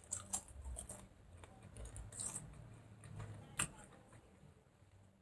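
Faint chewing of crunchy potato chips, with a few soft crunches and mouth clicks and one sharper click a little past three and a half seconds in.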